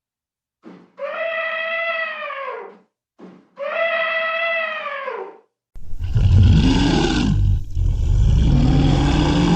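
A cat meowing twice, each meow long and falling in pitch at the end. From about six seconds in, a louder, rough, deep animal call follows, with a short break partway through.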